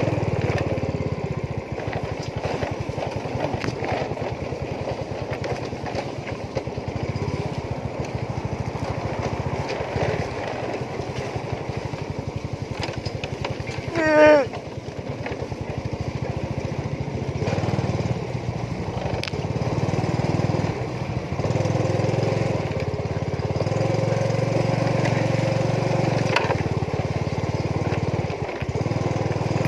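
Small motorcycle engine running steadily while riding along a rough dirt trail. Its note grows louder in stretches during the second half. About halfway through comes one brief sound falling in pitch.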